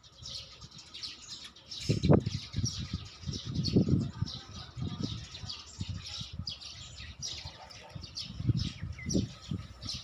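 Small birds chirping busily, many short high chirps overlapping, with irregular low rumbles on the microphone that are louder than the birds.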